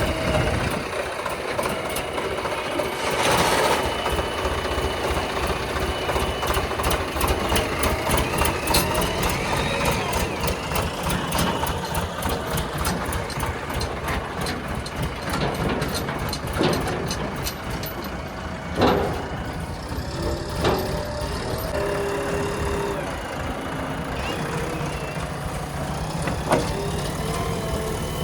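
Diesel engines of a backhoe loader and a tractor running steadily, with a few sharp knocks spaced through it.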